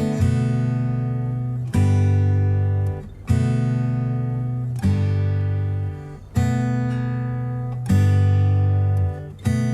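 Acoustic guitar music: slow strummed chords, each struck and left ringing, about one every second and a half.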